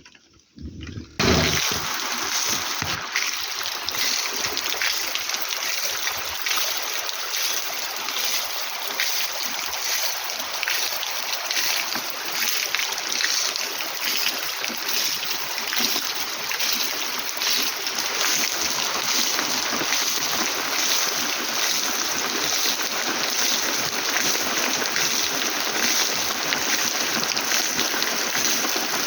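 Heavy rain falling steadily, a dense hiss of drops that starts abruptly about a second in.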